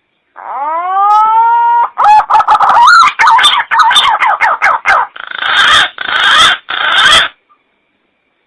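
Green pigeon (punai) call played as a hunting lure. A drawn-out whistle rises and then levels off, followed by a quick run of wavering, warbling notes and three harsher, noisier notes near the end.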